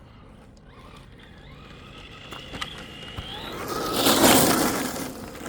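Traxxas Fiesta ST Rally VXL RC car driving on gravel: its brushless motor whine rises in pitch as it speeds up and comes closer. About four seconds in, a loud rush of tyres on loose gravel peaks as it passes close, then fades.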